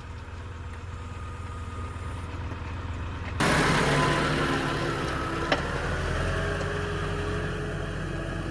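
A farm vehicle's engine running steadily, becoming suddenly louder and noisier about three and a half seconds in. A single sharp click about halfway through.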